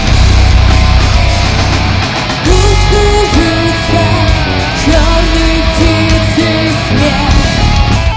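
Loud live rock band playing with distorted electric guitars and drums and a heavy low end. A stepped melody line comes in about two and a half seconds in.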